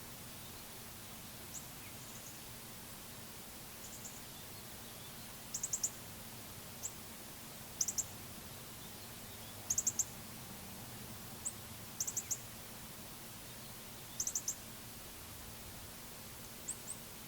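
Small songbirds giving short, very high chirps, mostly in quick bursts of two to four notes every couple of seconds, over a faint steady low hum.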